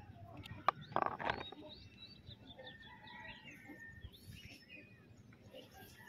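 Birds chirping in the background, short high calls scattered throughout. A sharp click comes just under a second in, followed by a brief clatter.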